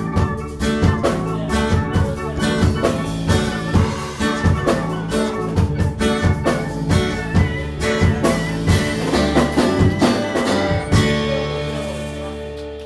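Live rock band playing the instrumental ending of a song, guitar and drums together; about eleven seconds in the drumming stops and a final held chord rings out and fades.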